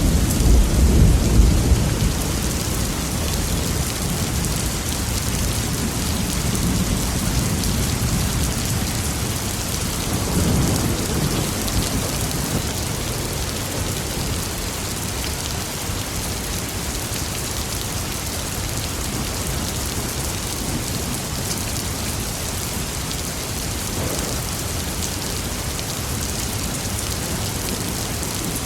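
Steady heavy rain with thunder: a loud low rumble in the first couple of seconds, a lesser roll of thunder about ten seconds in, then rain alone.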